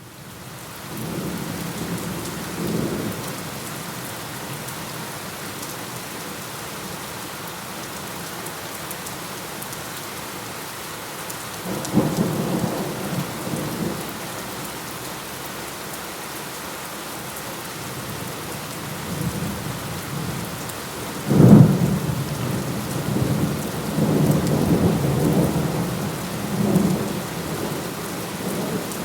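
Steady rain with thunder, fading in from silence at the start. A low rumble comes in the first few seconds, a sharp clap about twelve seconds in, and the loudest clap about twenty-one seconds in, which rolls on for several seconds.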